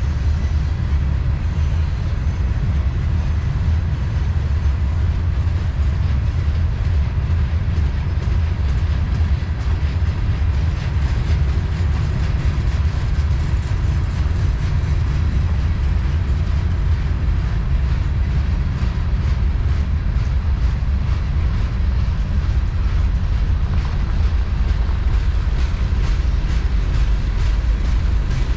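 Freight train rolling past at track side: a steady heavy rumble with the clicking of wheels over the rails.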